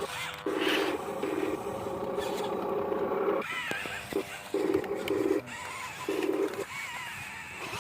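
Small electric gear motors of a remote-control toy excavator and dump truck buzzing in on-off bursts as the controls are worked. The motors run long at first, then in short spurts.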